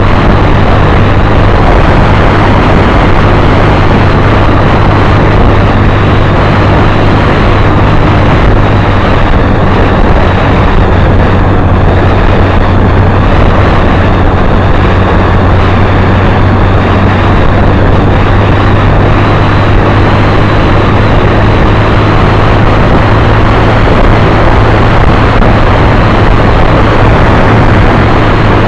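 Motorcycle running steadily on the move, with loud, unbroken wind rush on the camera's microphone and a steady low engine drone underneath.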